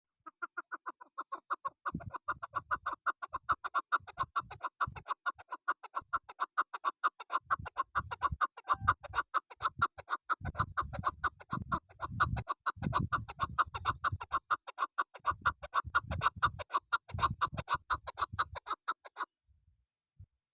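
Female chukar partridge (chakor) calling: a long, fast, even run of clucking notes that stops near the end, with occasional low rumbles underneath.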